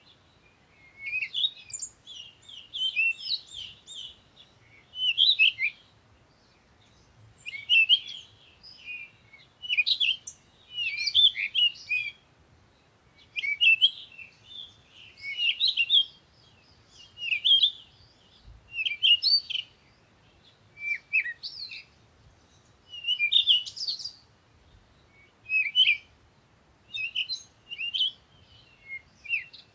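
Songbirds chirping: short bursts of quick, high twittering notes, a new phrase every second or two with brief pauses between.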